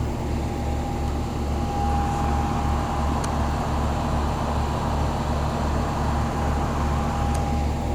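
Outdoor heat pump condensing units running: a steady low hum with a slow, even beat, a constant mid-pitched tone above it, and the rush of the fan.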